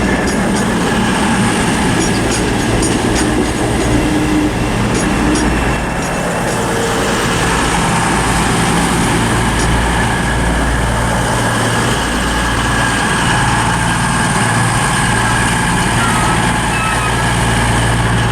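Class 221 Super Voyager diesel-electric unit rolling slowly into the platform, with sharp clicks from its wheels over the rail joints for the first few seconds. It then settles to a steady low hum from its underfloor diesel engines idling while it stands.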